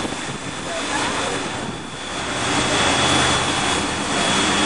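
Steady rumble and hiss of a steam sugar cane train in motion, growing louder about two seconds in.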